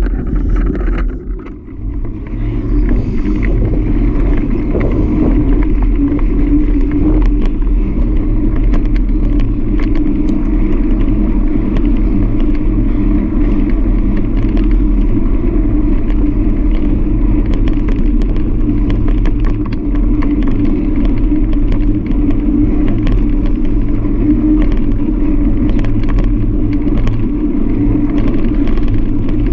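Steady, loud riding noise picked up by a bike-mounted GoPro Hero 5: low road rumble and wind, dipping briefly about a second in.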